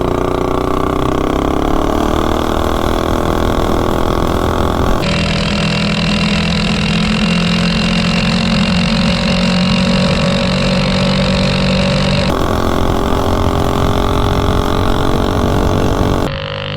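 Mini bike's Predator 212 single-cylinder four-stroke engine, fitted with a high-compression Shred head, running at wide-open throttle on a top-speed run. Its pitch climbs over the first few seconds and then holds near top speed. The sound changes abruptly twice, and near the end it suddenly drops as the throttle is let off.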